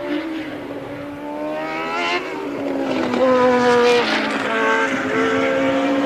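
1983 Formula One race cars' engines at full racing revs, several cars heard at once. One engine climbs in pitch and drops sharply at each upshift, about two seconds in and again around four seconds, over the steadier note of another car.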